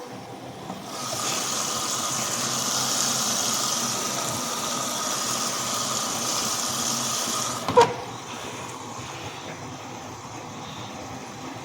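Bauknecht WAS 1400 washing machine taking in water: a steady hiss with a faint whistle that lasts about seven seconds, then cuts off with a sharp click.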